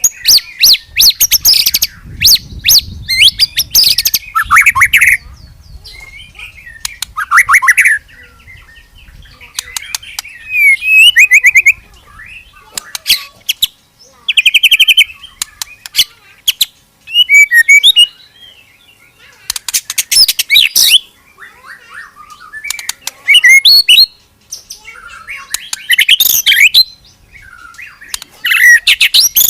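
White-rumped shama (murai batu) singing loudly in repeated bursts of sharp whistles, rapid trills and harsh notes, each phrase lasting one to two seconds with short pauses between.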